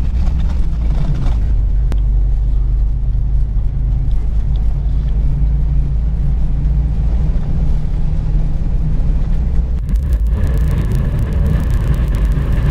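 Soviet-era van driving, its engine and road rumble heard from inside the cabin as a loud, steady low drone. About ten seconds in a hissing noise joins in.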